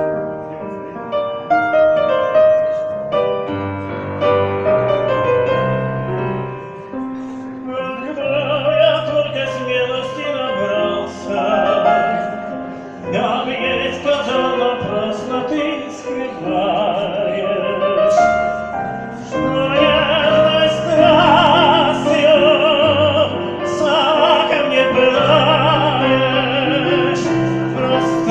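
Piano accompaniment, joined about eight seconds in by an operatic, classically trained voice singing with wide vibrato: a Neapolitan song performed in the bel canto style.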